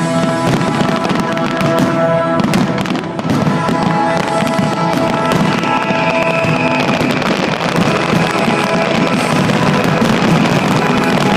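Fireworks going off over loud music. Sharp bangs cluster in the first three seconds while held musical notes sound, then the sound turns into a dense, continuous wash of noise.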